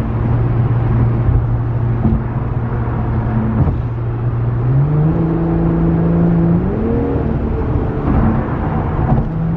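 Infiniti Q50's V6 with a muffler delete, its exhaust drone and growl heard from inside the car. The note holds steady, steps up in pitch about halfway through, rises again a couple of seconds later, then drops back near the end.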